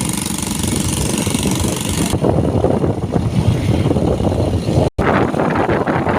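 Motorcycle engine running while riding, with a high hiss of wind on the microphone through the first two seconds. The sound cuts out for an instant about five seconds in.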